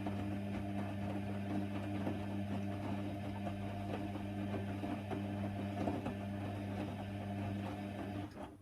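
Hoover Nextra HNWL 7146 washer dryer's drain pump humming steadily, with water crackling and gurgling through it, then switching off abruptly near the end.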